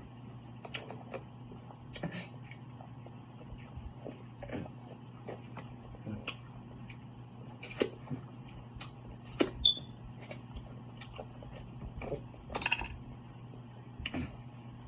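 Close-miked eating of a seafood boil: chewing with irregular wet smacks and sharp clicks, the loudest a cluster about eight to ten seconds in and another near the end. A steady low electrical hum runs underneath.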